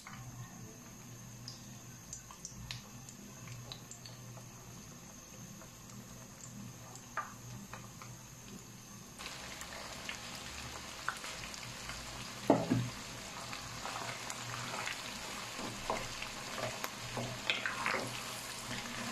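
Batter-coated chicken strips deep-frying in hot oil in a wok. The sizzle is faint at first, then turns into a steady full sizzle from about nine seconds in, with a few sharp knocks of a utensil against the pan.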